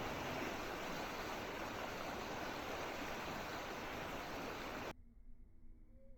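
Steady rushing water noise, like a stream or heavy rain, that cuts off suddenly about five seconds in.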